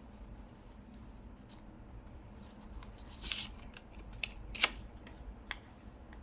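Scissors cutting paper: a few short snips and scrapes, the loudest about four and a half seconds in.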